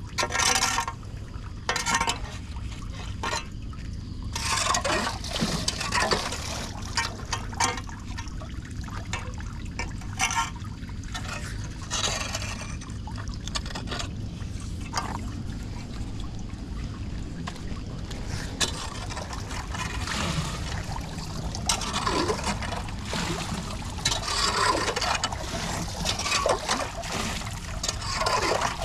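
Floodwater running and gurgling into a storm drain, with irregular splashing surges over a steady rush.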